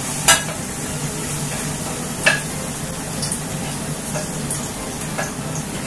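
Grated onion, garlic and ginger sizzling in hot oil in an aluminium saucepan while being stirred with a wooden spatula, with two sharp knocks of the spatula, one just after the start and one about two seconds in.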